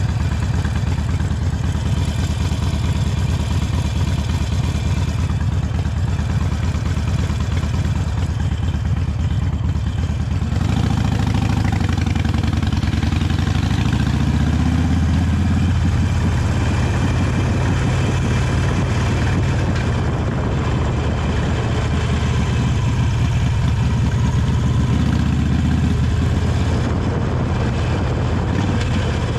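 Harley-Davidson Sportster 883 Iron's air-cooled V-twin running under way through its stock exhaust. A little over a third of the way in the engine note rises and gets louder, then keeps changing pitch with the throttle.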